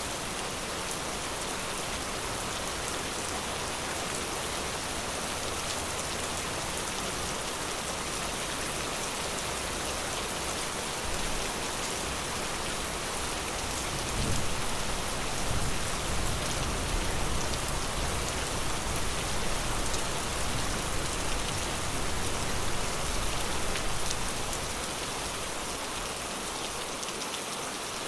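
Steady rain falling in a forest, an even hiss of drops. About halfway through, a deeper rumble swells up for roughly ten seconds before easing back.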